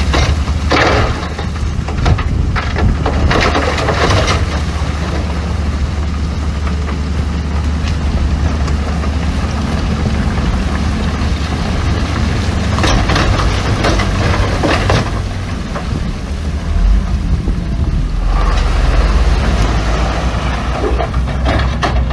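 Heavy diesel earthmoving machinery running steadily, with several spells of louder clattering and grinding of rock and machinery.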